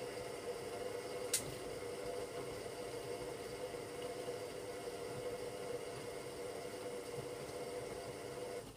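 Hoover Logic washing machine's motor turning the drum during a cotton 60 wash: a steady motor whine with a single sharp click about a second in. The whine stops suddenly near the end, as the drum pauses between tumbles.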